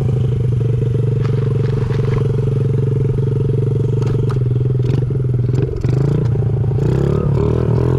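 2005 Honda CRF50's small four-stroke single-cylinder engine running steadily under way, with scattered clatter. The engine note dips briefly a little before six seconds, then wavers in pitch.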